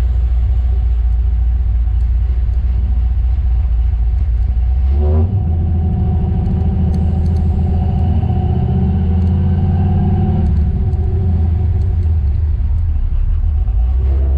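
Chevrolet Chevelle's engine running steadily on track; about five seconds in the note shifts up and holds stronger, then eases back down about eleven seconds in.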